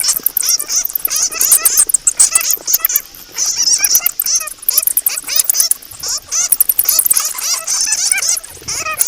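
Flying foxes (kalong bats) chattering as a group: many rapid, shrill, overlapping squeaks and chirps.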